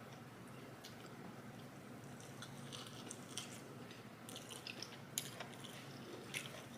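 Faint close-miked chewing and wet mouth sounds of a person eating, with scattered small clicks and two sharper clicks near the end.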